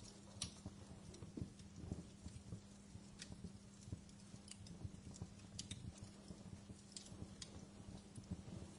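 Wood fire in a fireplace crackling, with irregular sharp pops and snaps over a low rumble and a steady low hum.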